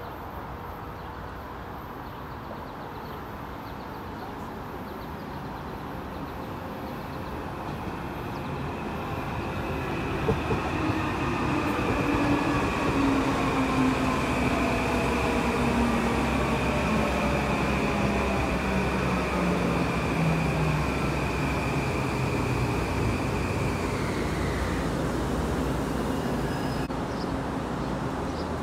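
Metro-North M8 electric multiple-unit train pulling in and slowing to a stop: its rumble grows louder as it arrives, its motor whine slides steadily down in pitch, and a high steady whine holds until both die away near the end as the train stops.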